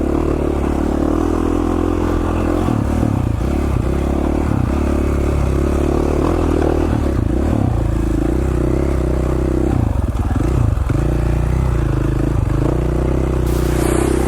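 2017 KTM 450 XC-F dirt bike's single-cylinder four-stroke engine running at low trail speed, its note rising and falling with the throttle, a little unsteady in the middle, with scraping and clattering from the bike over rough ground.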